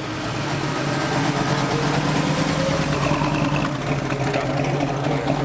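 A muscle car's engine running at a slow idle as it rolls in at walking pace, a steady low engine note that grows a little louder during the first second.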